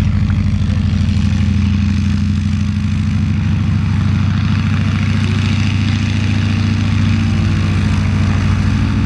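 Stearman biplane's radial engine running steadily at low taxi power, with a deep, even propeller drone.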